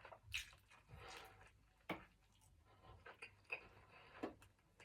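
Near silence with faint eating sounds: a few soft clicks and scrapes, the sharpest about two seconds in.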